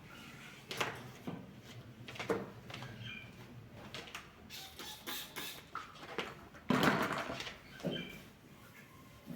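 Household handling noises: scattered light knocks and clicks, with a louder scrape or rustle about seven seconds in.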